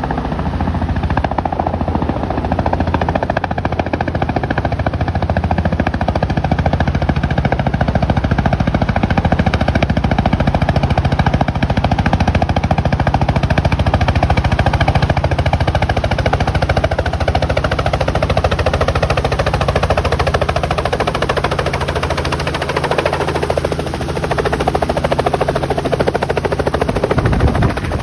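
Helicopter running, its rotor blades chopping in a rapid, even, continuous beat over a steady engine drone.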